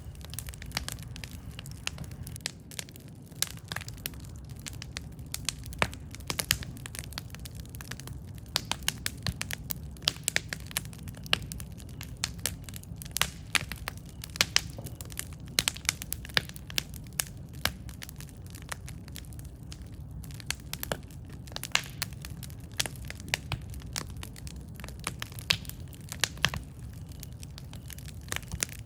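Campfire burning: irregular sharp crackles and pops from the burning wood, several a second, over a steady low rumble of the flames.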